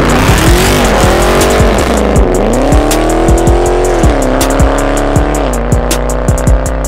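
Hip-hop beat with bass kicks and hi-hats, mixed with a car engine revving hard. The engine's pitch climbs and holds, then drops back about three times.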